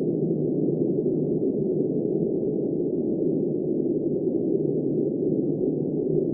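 Steady, muffled blizzard wind noise: a low, even rush with no high hiss, unchanging throughout.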